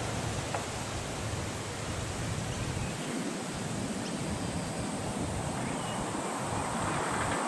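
Wind blowing steadily as an even rushing noise, its low rumble dropping away about three seconds in, with a few faint bird chirps.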